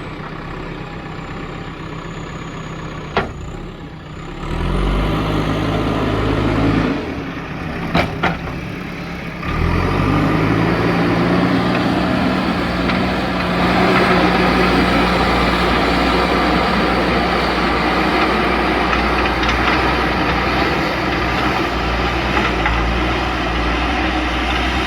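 JCB backhoe loader's diesel engine running low, then revving up about five seconds in, easing off, and revving up again about ten seconds in and holding high as it works under load. Two sharp knocks come near three and eight seconds in.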